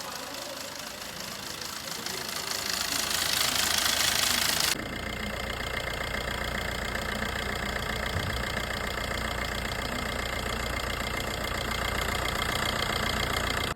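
Opel/Fiat 1.3 CDTI (Multijet) four-cylinder turbodiesel engine running with a timing-chain noise. About five seconds in, the sound changes abruptly to steadier running with a deeper hum.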